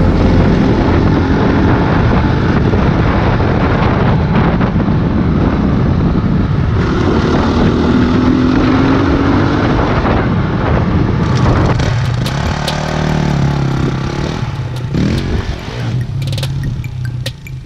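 Honda CRF250X dirt bike's single-cylinder four-stroke engine on the move, its revs rising and falling, then settling to a lower, steadier note in the last few seconds. A heavy rumble of wind buffets the microphone.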